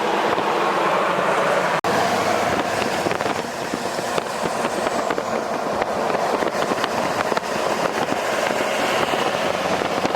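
Steady vehicle and road noise with scattered crackles, briefly cutting out about two seconds in.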